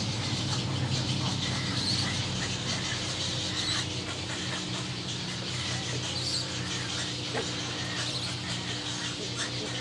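Short, high bird chirps, one every second or two, over a steady low hum.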